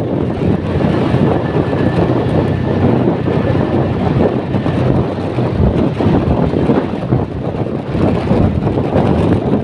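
Steady running noise of a motor vehicle, loud and continuous with a low hum.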